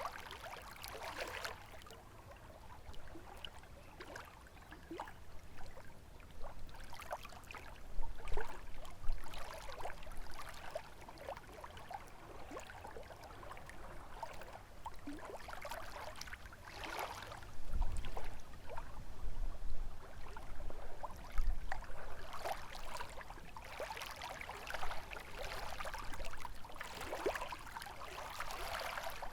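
Small lake waves splashing irregularly against the shore, in uneven bursts every second or two, over a low rumble of wind.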